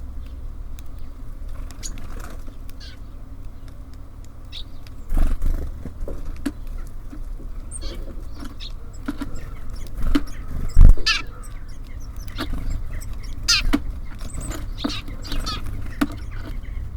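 Birds at a wooden bird feeder: repeated pecking taps and clicks, heavier knocks about five and eleven seconds in, and a few short high chirps, over a steady low rumble.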